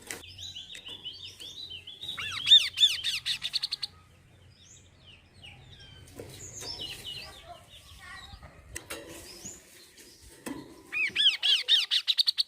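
Kaso-kaso bird song, played as a lure to make other birds sing. It comes in two loud bouts of rapid, repeated arching notes, each about a second and a half long, one about two seconds in and one about eleven seconds in, with softer scattered chirps between them.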